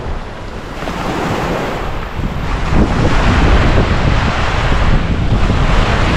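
Ocean waves breaking on a sandy beach, with wind buffeting the microphone; the surf grows louder about three seconds in.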